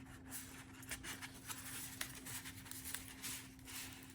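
Faint rustling and light taps of cardstock and paper being handled as a journal card is slid into a paper envelope, over a steady low hum.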